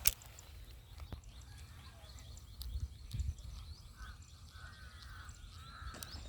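Faint outdoor ambience with birds chirping in short curved calls, mostly in the second half, and a single sharp click right at the start.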